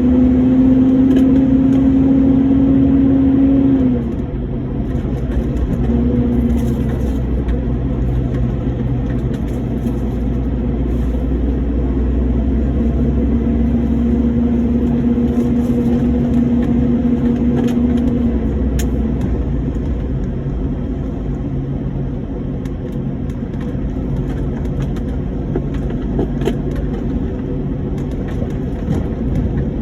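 Lorry engine and road rumble on the move, steady and low. A humming engine note climbs slowly and then drops away suddenly about four seconds in. It returns and drops again after about eighteen seconds.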